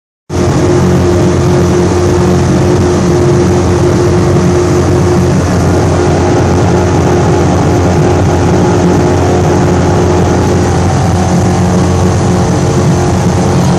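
Race boat engine running loud and steady, holding an even pitch.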